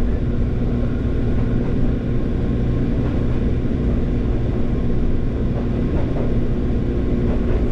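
Fujikyu 6000 series electric multiple unit (ex-JR 205 series) running on the line: a steady, loud low rumble with a faint even hum.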